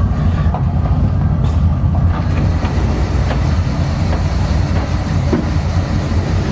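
Twin Crusader 350 V8 inboard engines running at a steady idle, a deep even rumble with a few faint ticks over it.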